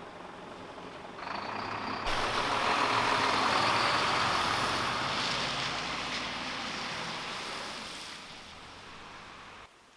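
A large vehicle passing close by. Its noise jumps up sharply about two seconds in, then fades away over several seconds and cuts off abruptly near the end.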